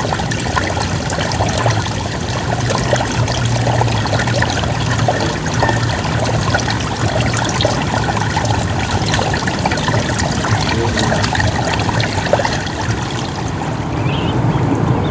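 Rain falling on lake water: a steady patter of many small drops over a low, steady hum.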